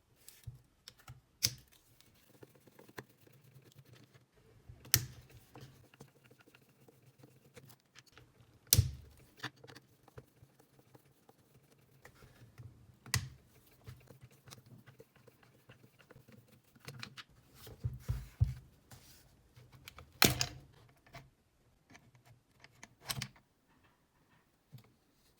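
Irregular clicks and knocks of small hard parts being handled during the repair of a Hitachi 24V cordless drill, with a handful of louder knocks among them.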